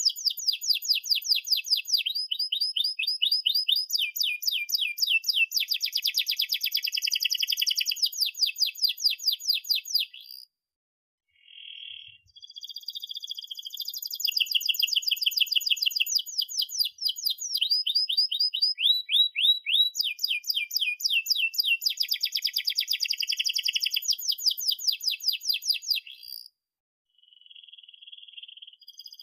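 Domestic canary singing long, rolling trills: rapid strings of short repeated chirps that shift in speed and pitch from phrase to phrase. The song breaks off for about two seconds roughly a third of the way in, then runs on, pausing again briefly near the end.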